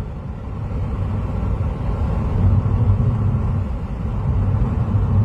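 Steady low rumble of a car travelling along a highway, heard from inside the cabin: engine and tyre noise with no sudden events.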